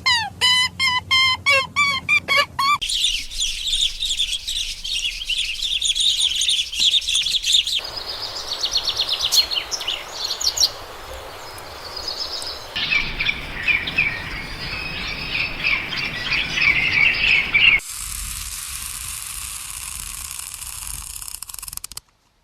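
Birds chirping and singing in a string of short recordings spliced one after another. Each section has a different kind of call: rapid repeated chirps, then dense song, then chatter, with an abrupt change about every five seconds. The sound cuts out just before the end.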